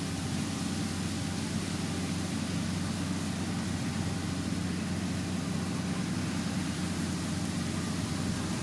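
Motor grader's diesel engine running steadily at an even pitch.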